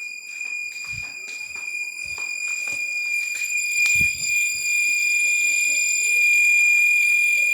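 A steady high-pitched whistling tone with overtones, growing louder about halfway through, over scattered light taps and knocks.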